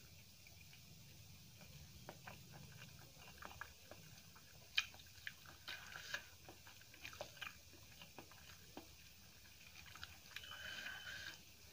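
Quiet close-up chewing of rice and curry, with scattered small crunchy clicks, the sharpest about five seconds in.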